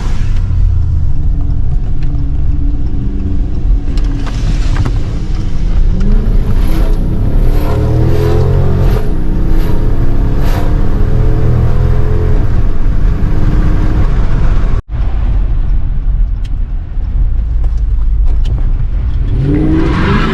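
2013 Dodge Charger R/T's 5.7-litre Hemi V8 revving hard and accelerating, its pitch climbing and falling again several times. About fifteen seconds in the sound cuts out for a split second.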